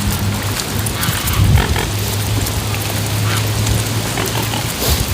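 Wind buffeting the microphone, with a steady low drone underneath.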